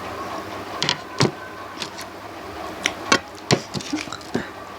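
Eating sounds: a handful of short, scattered mouth smacks and clicks from a person eating, over a steady background hum.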